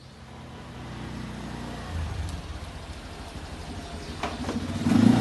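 A vehicle engine running, growing louder about four seconds in as it revs up.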